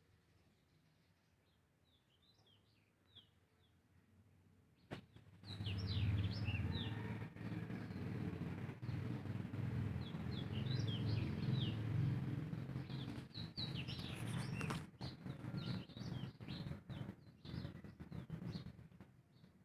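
Small birds chirping. From about five seconds in until near the end, a loud, close rustling and crackling noise full of sharp clicks covers them.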